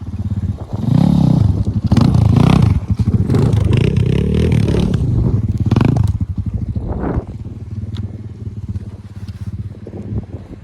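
Motocross bike engine revving hard for about five seconds, with a short burst of throttle near seven seconds, then dropping back to a lower, steadier running.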